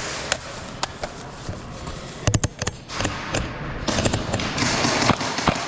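Airsoft gunfire in an indoor arena: scattered sharp pops, with a quick burst of about four shots a little over two seconds in, over a rising hiss of noise near the end.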